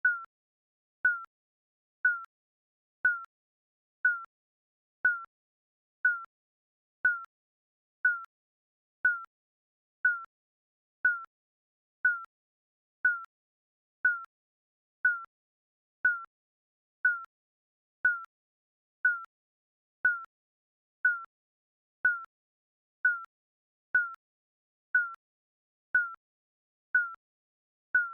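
Digital countdown timer beeping once a second: a short, high electronic beep with a sharp click at the start of each, and silence between beeps.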